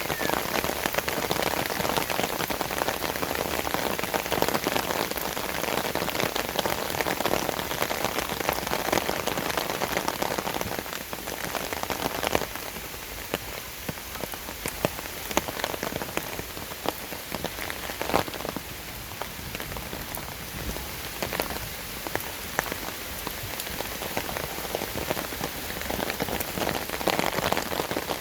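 Rain falling steadily, with single drops landing close by as sharp ticks. It is heavier at first and eases about eleven seconds in.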